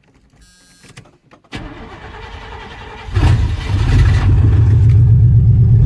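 An old truck's engine is cold-started: after a faint click, the starter cranks for about a second and a half, then the engine catches about three seconds in and settles into a loud, steady fast idle.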